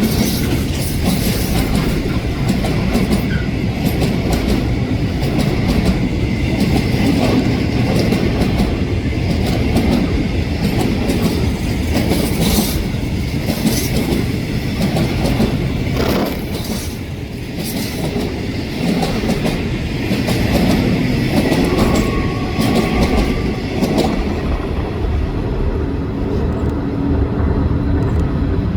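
Container freight train's wagons rolling past, a steady rumble of steel wheels on rail with repeated clacks over the rail joints.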